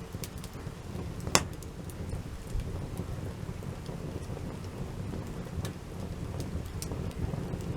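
Wood campfire burning: a steady low rumble of flames with scattered crackles and one sharp, loud pop about a second and a half in.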